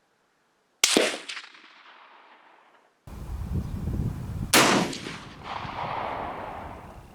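Two rifle shots about three and a half seconds apart, each a sharp crack followed by echo rolling away.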